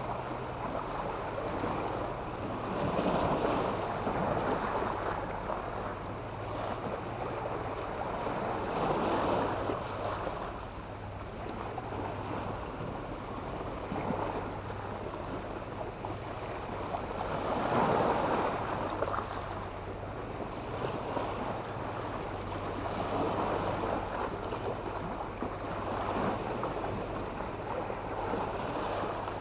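Sea waves breaking and washing up a shore of sand and black stones, the surf swelling and ebbing every few seconds, with the biggest wave about eighteen seconds in.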